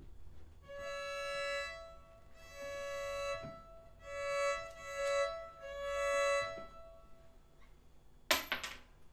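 Instrumental music from the opera's score: a slow phrase of five held, pitched notes in the upper-middle range. Near the end comes a short, sharp crash lasting about half a second.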